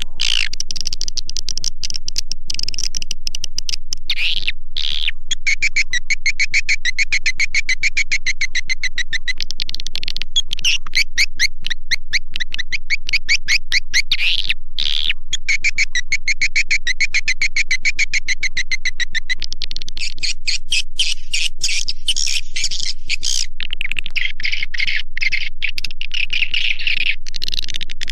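Swiftlet lure sound for a bird house: edible-nest swiftlet calls, rapid chittering trills and chirps running on continuously in a loop, played to call swiftlets in to roost and nest.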